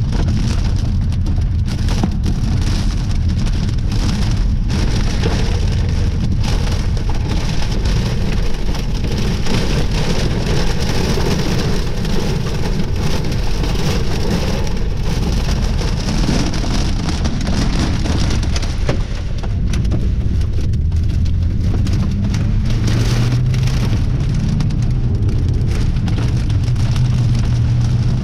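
Heavy storm rain pelting down in strong wind: a dense, steady patter of sharp strikes over a loud low rumble.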